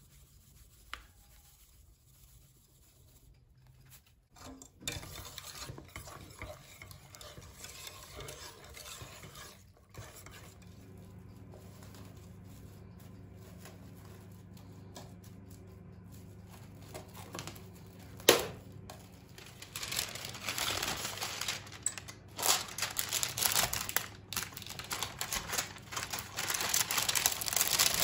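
Kitchen work sounds: a utensil stirring and scraping in a pot, with dishes and utensils knocking. A steady low hum runs through the middle, and there is one sharp knock near the middle. The stirring and clattering grow louder and busier toward the end.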